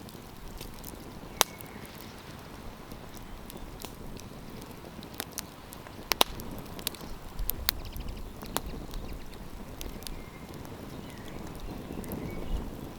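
Wood campfire crackling: sharp, irregular pops over a steady hiss, the loudest about six seconds in. A low rumble joins in about halfway through.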